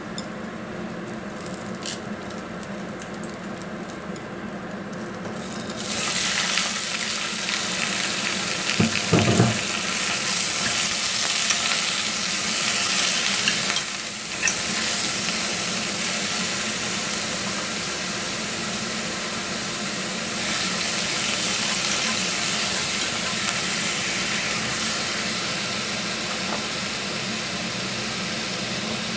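Ginger and shallots sizzling quietly in hot oil in a pot. About six seconds in the sizzling suddenly gets much louder and stays steady as more goes into the hot pot, with stirring and a brief knock about nine seconds in.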